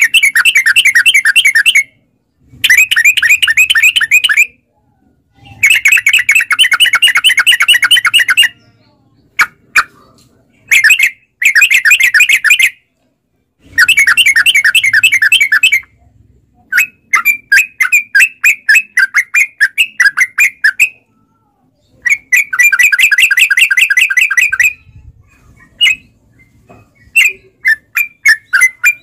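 Yellow-vented bulbul (trucukan) singing loud, fast rolling phrases of rapidly repeated notes, each run lasting a second or three, broken by short pauses and shorter choppy bursts.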